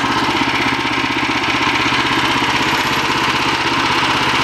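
The engine of a portable bandsaw sawmill idling steadily, with an even, rapid beat.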